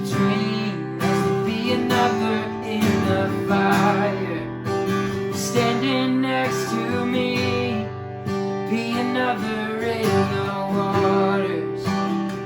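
Live worship band music led by strummed acoustic guitar, with a sung vocal line over sustained low notes.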